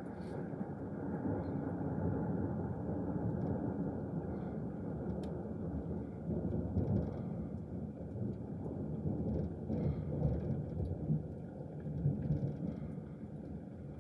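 Rolling thunder: a long, uneven low rumble that swells and fades over many seconds.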